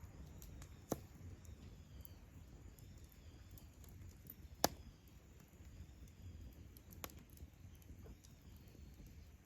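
Wood campfire burning: a low steady rumble with scattered sharp crackling pops, three of them standing out and the loudest about halfway through.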